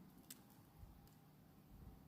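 Near silence with a single faint sharp crackle from a campfire about a third of a second in, and a few softer ticks after it.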